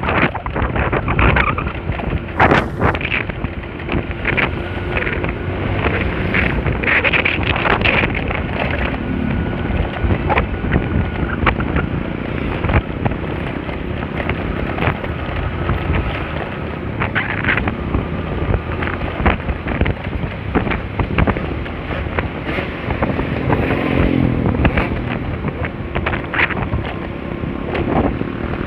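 Wind buffeting the microphone while riding a Honda Spacy scooter, with the engine and road noise running steadily underneath.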